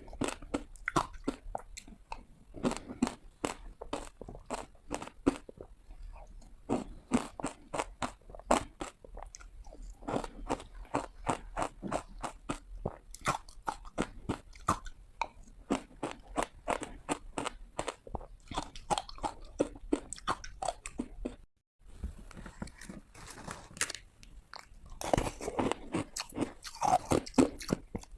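Ice being bitten and crunched close to the microphone: many sharp, rapid crunches one after another, with a brief silent break about two-thirds of the way through.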